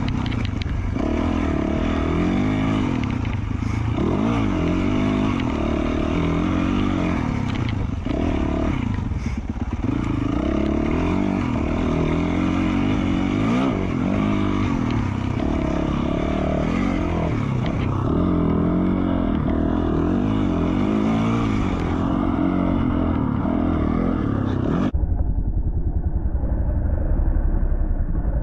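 A 2020 Yamaha YZ450F dirt bike's 450 cc single-cylinder four-stroke engine, breathing through an FMF Q4 slip-on exhaust, revving up and down under way, with occasional knocks from the bike. Near the end the sound turns dull and muffled.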